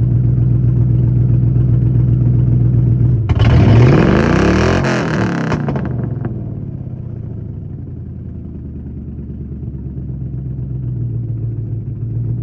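Ford Mustang 4.6 V8 running loud at idle through a blown-off exhaust, revved once about three seconds in for two seconds, rising and falling in pitch, then settling back to idle.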